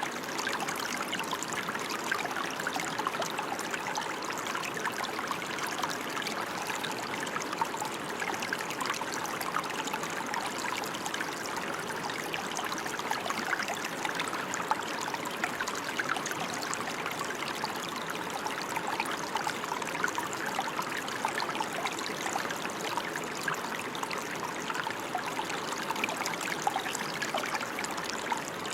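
Steady rain falling, an even hiss made up of many small drop hits that holds unchanged throughout.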